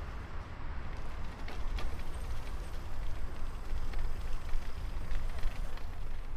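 Bicycle ride in the rain: wind rumbling on the microphone over a steady hiss of tyres on wet pavement, with scattered small clicks and rattles.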